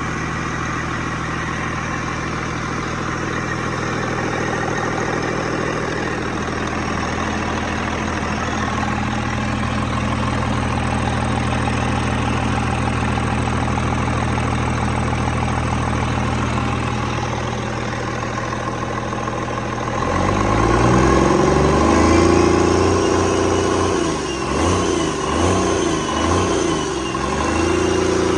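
1999 Cummins M11 Plus 11-litre inline-six diesel engine idling steadily, then revved up and back down several times from about twenty seconds in.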